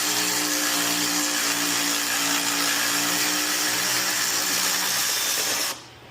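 Power tool running steadily on a 12 mm socket, spinning out a suspension bolt, then stopping abruptly near the end.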